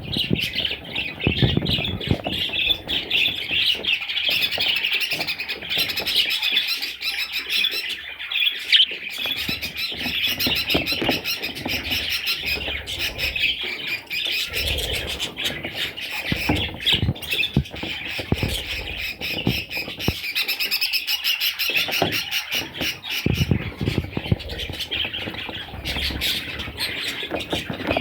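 Budgerigars chattering and squawking continuously in a dense, high-pitched stream of calls, with scattered low knocks and rustles underneath.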